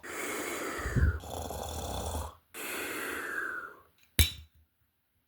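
A person snoring, with two long, drawn-out snores. About four seconds in comes a single sharp knock.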